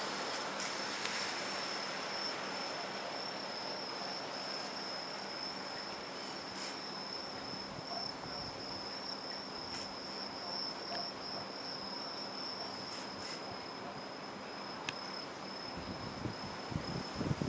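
Insects singing one unbroken high-pitched note over a steady hiss of background noise, with some low rumbling near the end.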